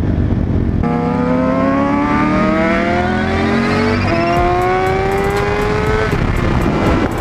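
Motorcycle engine accelerating hard: the pitch climbs steadily, drops at a gear change about four seconds in, climbs again, and the engine note falls away about six seconds in. A steady wind rush runs underneath.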